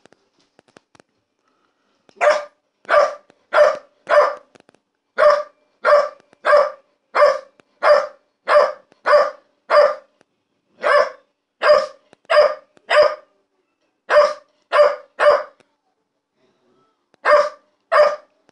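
Pit bull puppy barking over and over: short, high barks at about one and a half a second, in runs with brief pauses between them, starting about two seconds in.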